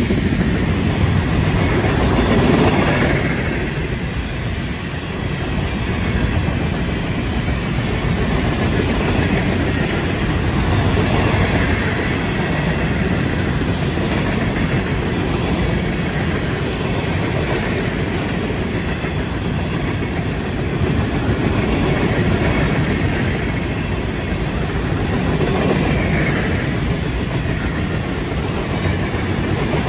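Florida East Coast Railway freight train rolling past, tank cars and then loaded rock hopper cars: a steady rumble of steel wheels on the rails that swells and eases slightly as the cars go by.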